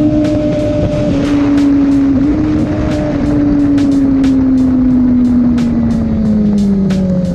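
Motorcycle engine running at steady high revs, its pitch sliding slowly down as the revs fall, over background music with a steady beat.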